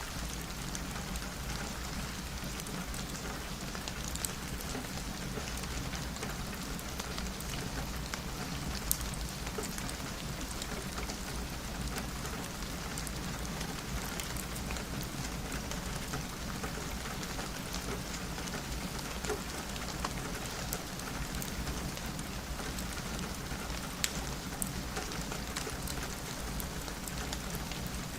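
Steady rain falling on a window, with scattered sharp ticks of single drops.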